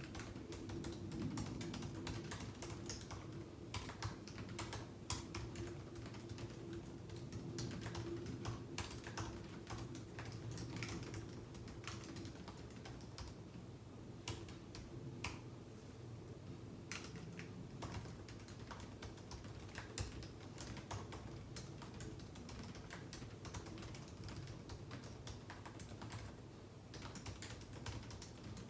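Typing on a computer keyboard: a continuous, irregular run of keystroke clicks, with a steady low hum underneath.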